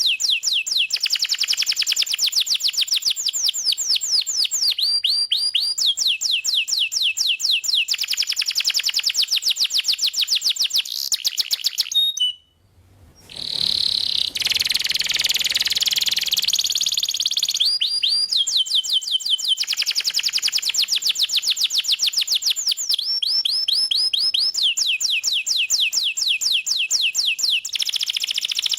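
A canary singing a continuous song of fast, repeated trills, switching from one roll to the next every second or two. About twelve seconds in the song breaks off briefly, then goes on with a harsher, noisier stretch for a few seconds before the clear trills return.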